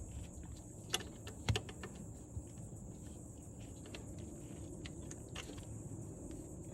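Scattered light metallic clinks and taps of hand tools and fittings, with two sharper clicks about a second and a second and a half in, as a mechanical fuel pump and its fuel lines are worked on.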